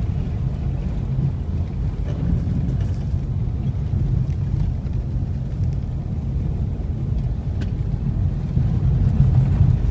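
Car engine running under power, a steady low rumble, heard from inside the cabin.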